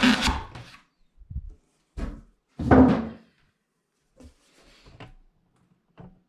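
A loud scraping or rubbing noise fades out in the first half second, followed by a series of separate knocks and thuds, about six of them, the loudest a little before the middle.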